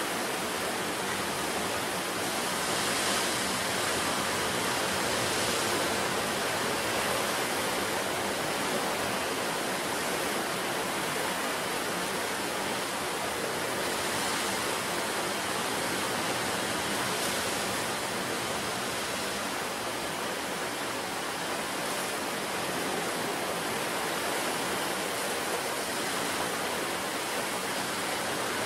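Ocean surf breaking continuously on the shore: a steady wash of water noise that swells slightly a few times.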